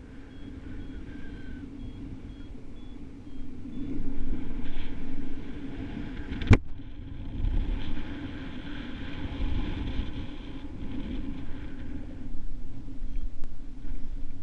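Wind rushing and buffeting over the microphone in flight, a steady low rumble that swells and eases with the gusts, with one sharp click about halfway through.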